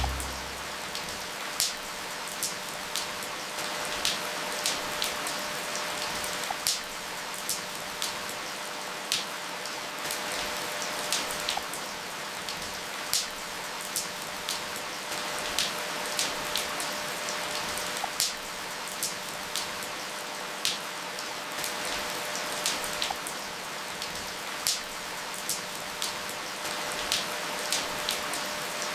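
Steady rain with individual drops striking a surface, irregular sharp taps about one or two a second.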